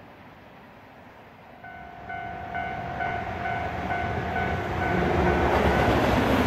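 A freight train approaching, its rumble and wheel noise growing steadily louder from about a second and a half in. Over it a pitched electronic ding repeats about twice a second and fades under the train.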